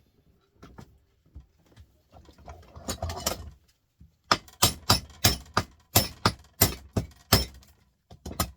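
A hammer knocking a stuck part on a piece of scrap to loosen it: a few softer knocks and a scrape, then a quick run of about nine sharp blows, roughly three a second, and one more near the end.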